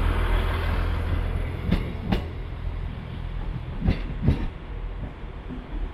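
Class 150 diesel multiple unit moving along the platform, its low engine rumble fading away, with two pairs of sharp wheel clunks over rail joints about two seconds apart.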